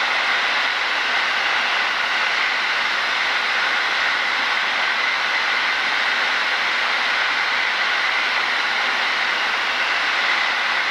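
Steady cockpit noise of a light single-engine piston aircraft on final approach, engine and airflow heard as an even hiss through the headset intercom, with no rises or breaks.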